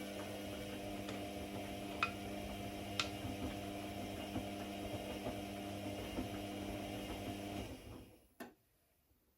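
A machine hums steadily with a few light clicks, then winds down and stops about eight seconds in, followed by a single click.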